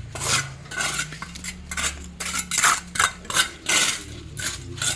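Shovel scraping and clinking through gravel and rubble, about two strokes a second: stone and soil being shovelled back into a dug-up pipe-repair hole.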